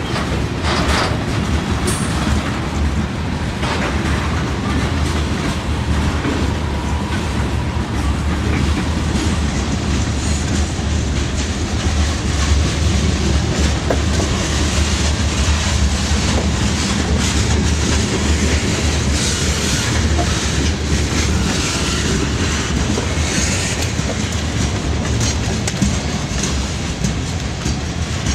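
Railway train running past with a steady low rumble and wheels clicking over the rail joints.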